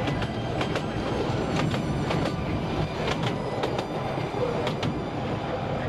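Narrow-gauge tourist train running, heard from its open carriage: a steady rumble with scattered sharp clicks from the wheels on the track.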